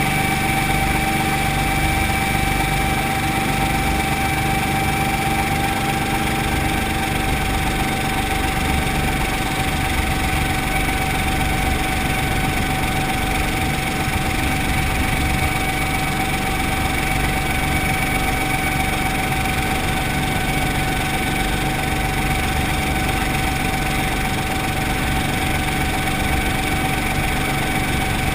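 Brantly B-2B helicopter's piston engine and rotor running steadily, a constant drone with a steady high whine over it.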